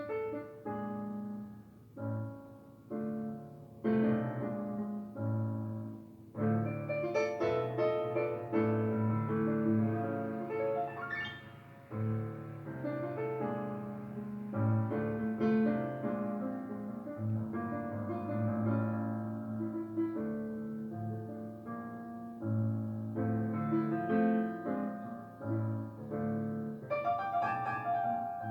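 Background piano music: slow chords and melody notes, sparse at first, then fuller from about six seconds in.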